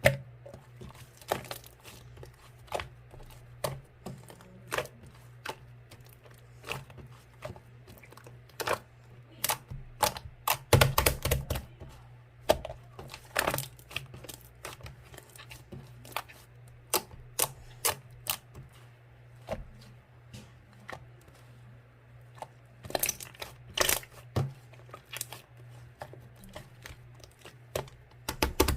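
Slime being squeezed and played with by hand, making irregular sticky clicks and pops, some in quick clusters.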